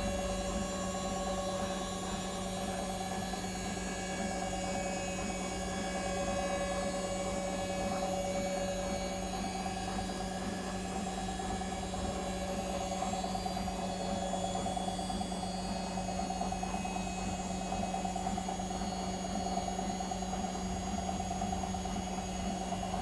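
Whirlpool FL 5065 front-loading washing machine on its 600 rpm spin, its drum and motor running at a steady speed with a constant hum and a few higher whining tones.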